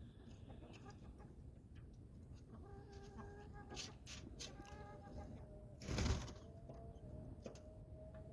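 Domestic chickens calling softly with drawn-out pitched notes, and a brief loud bump about six seconds in.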